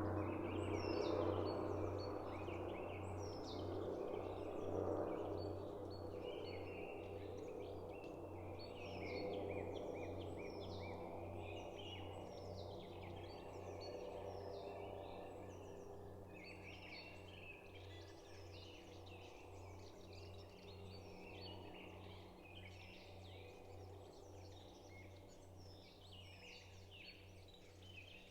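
A chorus of small forest birds chirping and trilling, many short high calls overlapping throughout. Underneath, a low steady hum and a rumble that slowly fades away.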